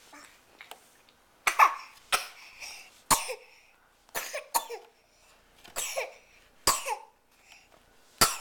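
Baby coughing in a string of short, sharp coughs after swallowing too much water from a cup.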